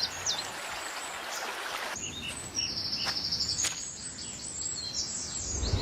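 Wild birds chirping over a steady background hiss of natural ambience: a few short hooked chirps at the start, then a rapid high trill about three seconds in.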